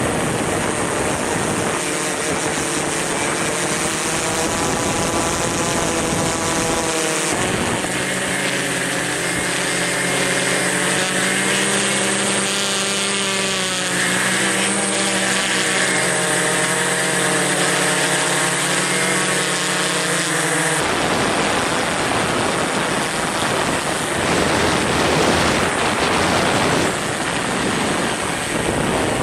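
Strong wind rushing over the microphone, with a steady machine hum in several even tones through the middle stretch. The hum stops about two-thirds of the way in, leaving only the wind noise.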